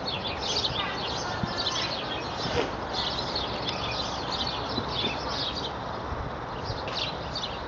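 Birds chirping over a steady outdoor background hiss, with many short chirps throughout.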